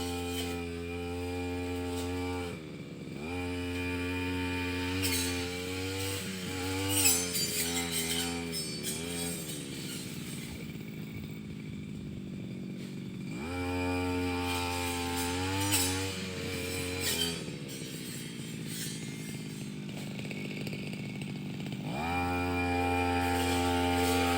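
Brush cutter engine running at high revs with the pitch wavering unevenly, as when the blade is cutting. It drops to a low idle about ten seconds in, revs back up a few seconds later, drops to idle again, then revs up once more near the end.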